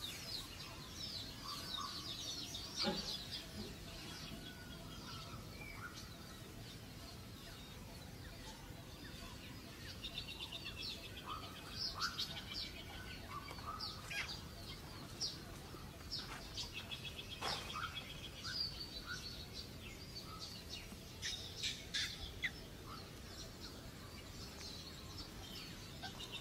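Small birds chirping, with quick trills of rapidly repeated high notes and scattered short calls throughout.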